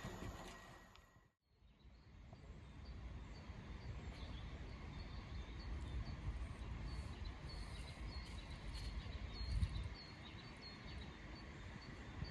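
Outdoor ambience after a fade-out about a second in: small birds chirping repeatedly over a low wind rumble.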